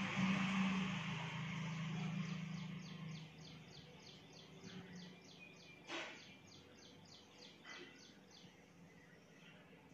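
Background sounds from outdoors. A low hum with a hiss over it fades out over the first three seconds. Then a bird repeats a short high chirp about four times a second for several seconds, and there is a single sharp click about six seconds in.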